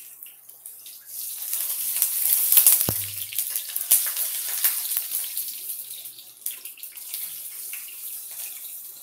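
Rice patties sizzling and crackling in hot oil in a stainless steel frying pan, swelling about a second in as a patty is turned with a metal spatula, then easing off. A single knock about three seconds in.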